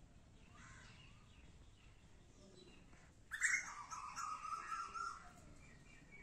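A bird calling once for about two seconds, starting a little past the middle, over faint steady background noise.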